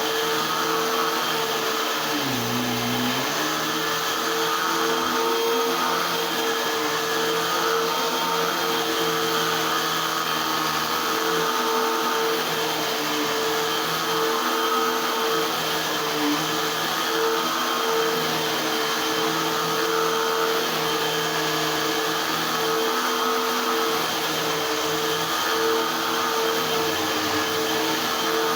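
Eureka AirSpeed Unlimited Pet vacuum cleaner running steadily, a constant motor whine over airflow hiss. About two seconds in, the motor's pitch dips briefly, then recovers.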